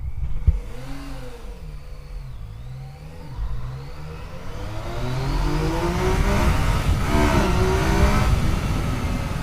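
Yamaha FJ-09's 847 cc three-cylinder engine pulling away under acceleration: the revs rise and drop briefly about a second in, then climb steadily and get louder from about three seconds in, with a short dip near eight seconds as it shifts. Low wind noise runs underneath, and there is a single sharp knock about half a second in.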